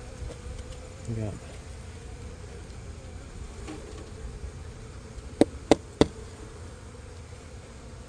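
A honeybee colony buzzing steadily as the bees are shaken out. About five and a half seconds in come three sharp knocks in quick succession.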